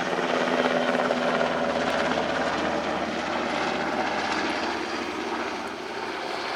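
NH90 helicopter in flight, its rotors and turbine engines sounding steadily, slowly fading near the end, during a steep nose-down dive.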